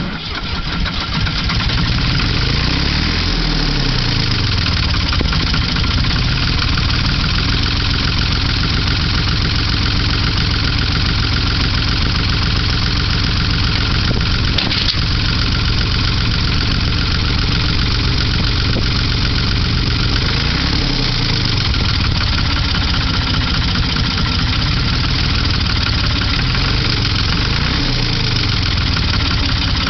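Old Ford diesel tractor engine coming up to speed in the first second or so, then running steadily, its revs dipping and rising again a few times, just after a hard start.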